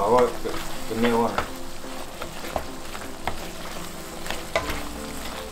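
Pork in curry sauce sizzling in a stainless steel pan while a slotted spatula stirs it, with scattered clicks and scrapes of the spatula against the pan.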